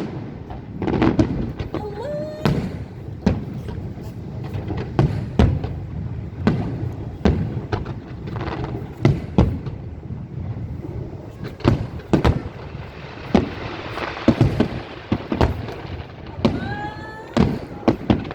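Aerial fireworks going off in an irregular, rapid series of loud bangs and crackling bursts, several a second at times.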